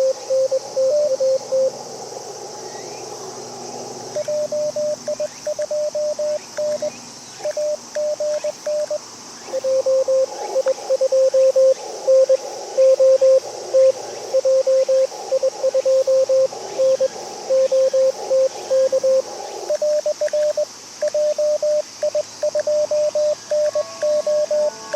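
Morse code (CW) from an amateur radio transceiver: a steady tone keyed on and off in quick dots and dashes, at two slightly different pitches as stations take turns. Between them is hiss of band noise through the receiver's narrow CW filter.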